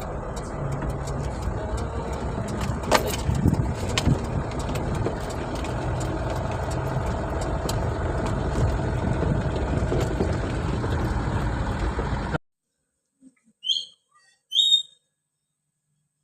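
Vehicle on the move, a steady engine and road rumble with scattered clicks. It cuts off suddenly about twelve seconds in, and two short high chirps follow about a second apart.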